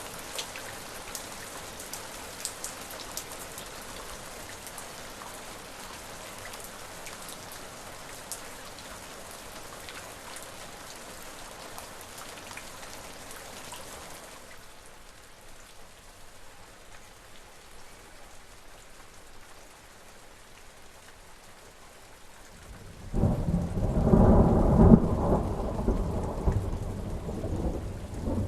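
Steady rain falling, with fine drip ticks. About halfway through it turns softer and duller, and near the end a loud rolling rumble of thunder comes in.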